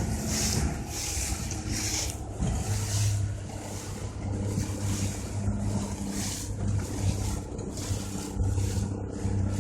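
Motorboat engine running steadily under way, with wind on the microphone and water rushing past the hull in rough surges.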